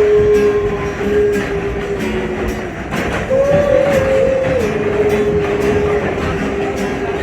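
R68 subway train running, heard from inside the car: wheels clacking over rail joints under a steady whine that steps up in pitch a little past three seconds in, then drops back about a second later.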